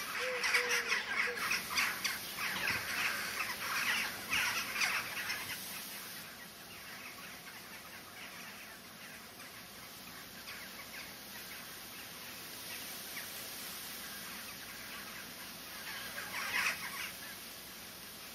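Birds calling, busy and choppy for the first several seconds, then fainter, with one more short burst of calls near the end.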